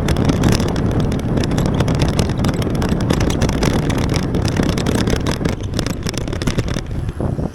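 Wind buffeting the microphone in a spring rain shower, a loud rumble with rain rattling through it, cutting off suddenly near the end.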